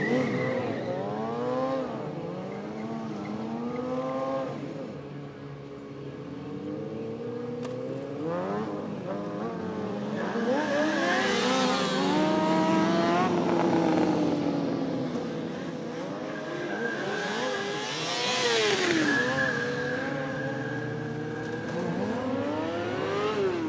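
Several motorcycle engines revving again and again, their pitches rising and falling over one another, with the loudest rev-ups about halfway through and again about three-quarters through.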